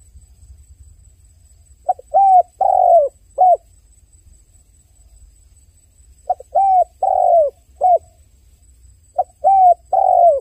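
A dove cooing: three phrases, each a quick lead note followed by three or four short coos, repeated about every four seconds. The last phrase is cut off at the end.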